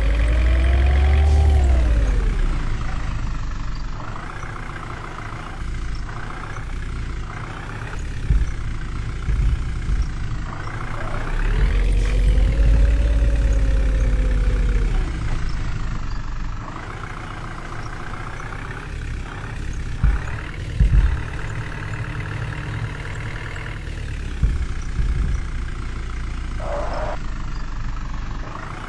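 Tractor diesel engine running, revving up and easing back down twice, with a couple of sharp knocks about twenty seconds in.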